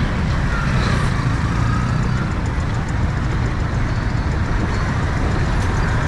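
City road traffic: the steady low rumble of vehicle engines, including heavy ones, running and idling close by.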